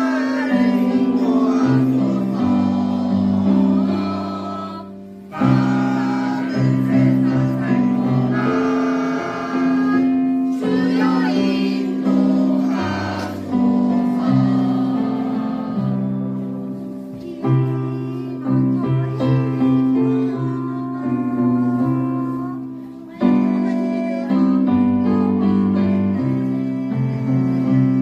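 Church praise choir singing a hymn with keyboard accompaniment, in sustained phrases that break off and restart about every five to six seconds.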